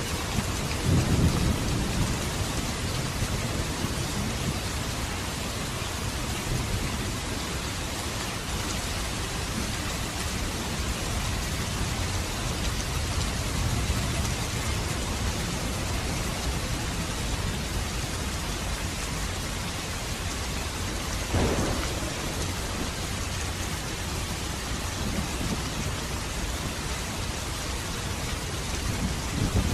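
Steady rain falling, with low rolls of thunder rumbling near the start and again near the end. A single brief sharp crack sounds about two-thirds of the way through.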